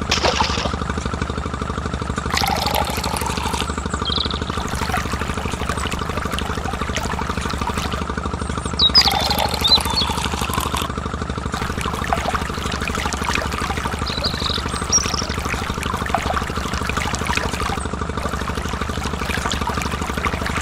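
A small motor running steadily with an even hum, with splashing and trickling water a few times.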